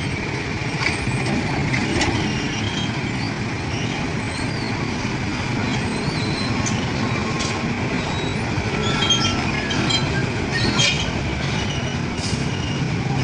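Train passing with a steady rumble of wheels on the rails, with faint high squeaks and clicks toward the end.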